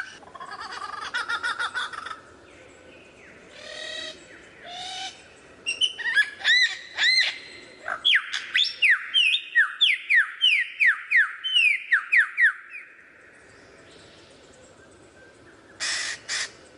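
Lyrebird singing a varied run of mimicked calls: warbling notes, then arching whistles, then a rapid series of downward-sweeping notes about two a second from about 8 to 12.5 s. Two sharp notes come near the end.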